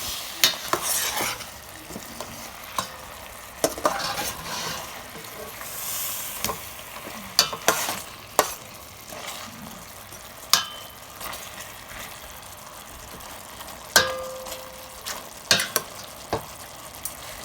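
Chicken adobo simmering and sizzling in a pot as its sauce reduces and thickens, with a cooking utensil stirring and scraping and clinking sharply against the pot about ten times.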